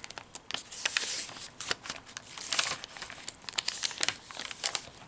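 Paper pages, pockets and tags of a handmade junk journal rustling and crinkling as they are handled and turned, with irregular small taps and clicks.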